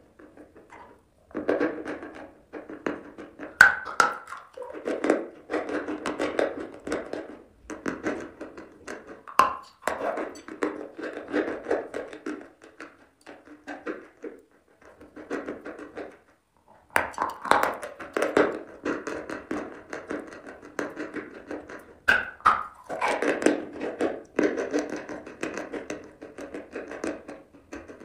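Dry crunching and chewing of chunks of white chalk. It comes in bouts with gritty crackling and a few sharper snapping bites, broken by short pauses, the longest a couple of seconds in the middle.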